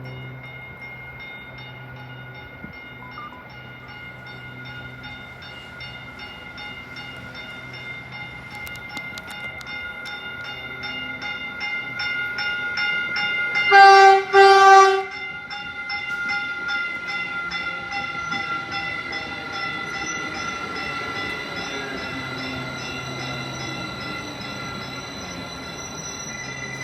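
Train approaching and passing with a bell ringing steadily. About halfway through the horn sounds two short, loud blasts.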